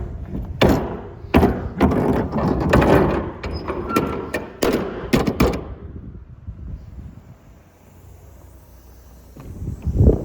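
A run of knocks and clunks, dense for about six seconds, then dying away, with a low rumble building near the end.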